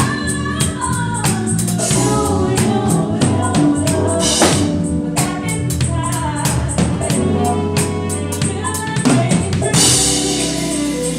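A band playing with singing over it, drums and cymbals keeping a steady beat.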